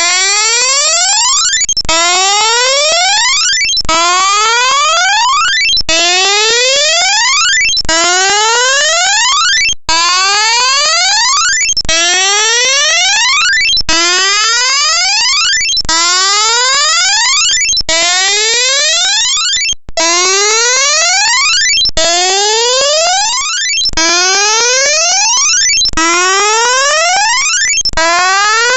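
A loud electronic tone that sweeps upward in pitch, about two seconds per sweep, then restarts, over and over without a break.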